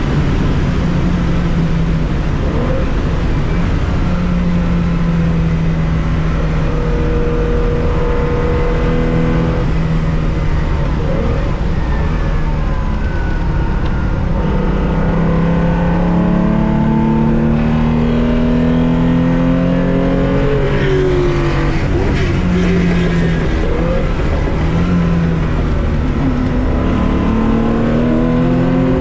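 A 1965 Porsche 911 2.0's air-cooled flat-six at racing revs, heard onboard. The pitch climbs through the gears and drops at each gear change, with a cluster of quick drops and re-rises about two-thirds of the way through, as when downshifting under braking.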